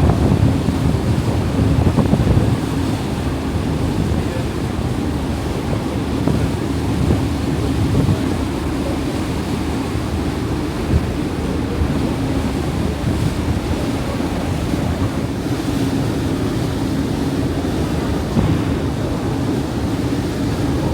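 Wind buffeting the microphone over steadily rushing sea water, with a low steady drone beneath from the high-speed catamaran ferry's engines. The gusts are strongest in the first couple of seconds.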